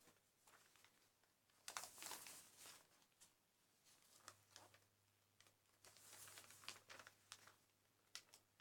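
Faint rustling and crinkling of a sheet of paper handled by hand as it is flattened out and refolded, in short scattered bursts.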